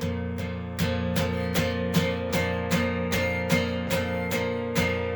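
Acoustic guitar strumming a chord in an even rhythm, about two and a half strums a second; the last strum comes near the end and rings on, fading.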